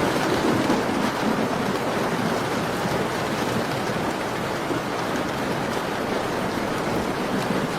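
Steady rain falling on a window, with faint crackles from a fireplace. A low rumble swells slightly in the first second.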